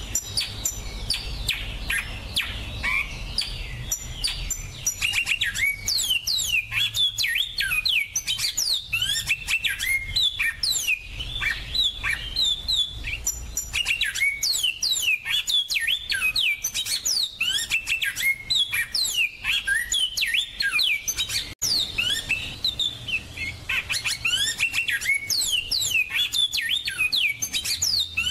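Finch song: a dense, continuous run of quick chirps, twitters and trills, with a momentary break about two-thirds of the way through.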